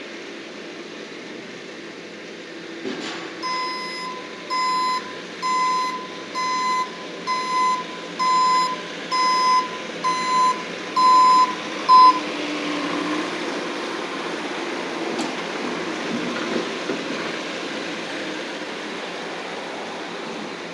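Backup alarm on a Bobcat skid-steer loader beeping about once a second, ten beeps at one steady pitch, stopping about twelve seconds in, over the steady running of the loader's engine.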